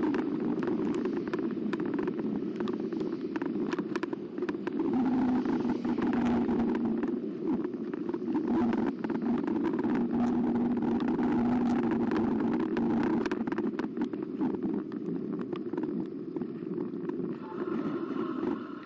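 Carbo X e-bike being ridden: a steady hum that shifts slightly in pitch under a rushing of tyre and wind noise, with frequent sharp clicks and rattles from bumps in the path.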